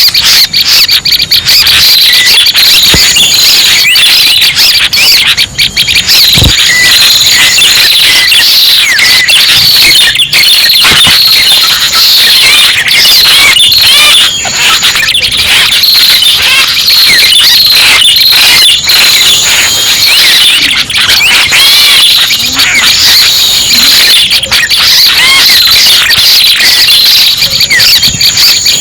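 Bird-luring recording of red-headed prenjak calls, played loud: a dense, unbroken mass of high, fast chirps and squeaky trills, with brief thin high whistles now and then.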